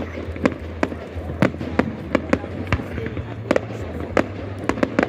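Fireworks going off in a rapid, irregular series of sharp bangs and cracks, about three or four a second, over a steady low rumble.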